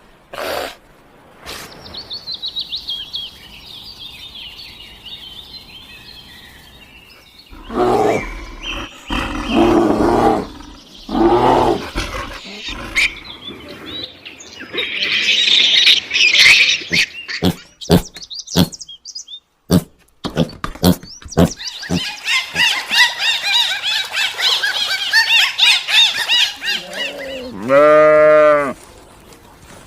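A string of different animal calls one after another: high bird twittering, then several loud low calls, more dense bird twittering, and near the end a drawn-out wavering call.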